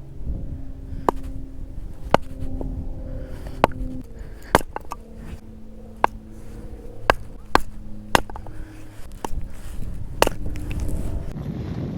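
About a dozen sharp chopping or knocking strikes, irregularly spaced at roughly one a second, over a low background rumble.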